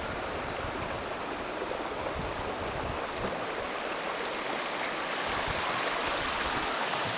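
Steady rush of flowing river water, growing a little louder toward the end.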